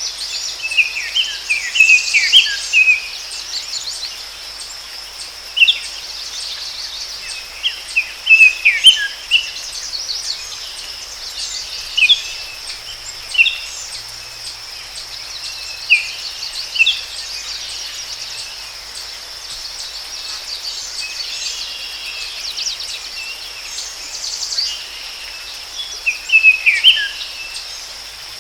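Forest ambience: a steady high-pitched chorus of insects, with songbirds giving short bursts of quick falling chirps every few seconds.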